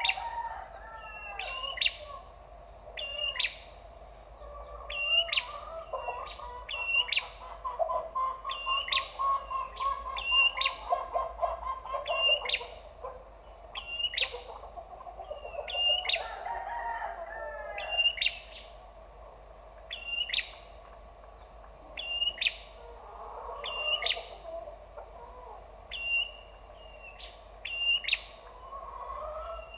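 Prinia (prenjak) song played as a lure: a sharp, high call repeated about once a second, over lower warbling and trills of other birdsong.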